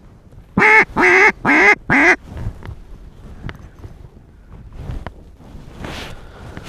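Mallard duck call blown in four loud, evenly spaced hen quacks, each falling slightly in pitch.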